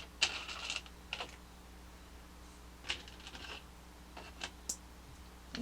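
Small hard plastic building pieces clicking and rattling against each other as they are handled, in short irregular clusters: a busy run in the first second, another near three seconds, and two sharp clicks towards the end.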